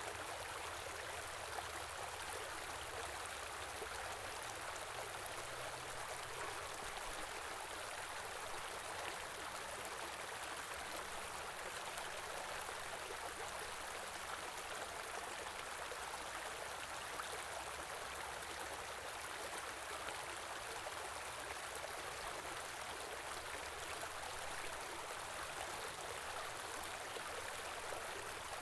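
A small river or stream flowing steadily, its water running and splashing over stones in an even rush.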